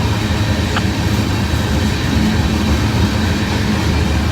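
Freight cars of a long mixed-manifest freight train rolling past, a steady noise of steel wheels running on the rails.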